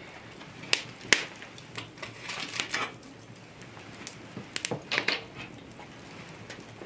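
Kitchenware being handled: two sharp clinks about a second in, then short runs of clattering knocks around the middle and again near five seconds in.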